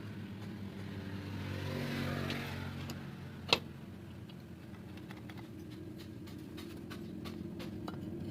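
A small engine running steadily, rising a little about two seconds in. One sharp metallic click comes about halfway through, and fainter ticks follow.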